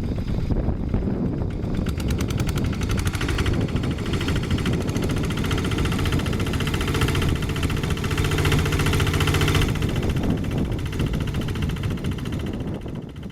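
Single-cylinder Kubota diesel engine of a two-wheel hand tractor running under load with a rapid, even chugging beat. It grows louder for a few seconds past the middle, drops back, and fades out near the end.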